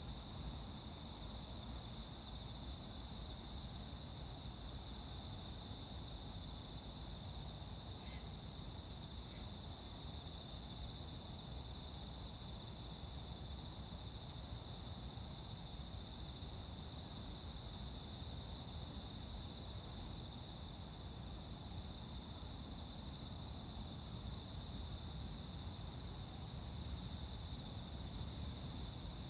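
Insects, crickets among them, chirping in a continuous high-pitched chorus that holds steady throughout, over a low steady rumble.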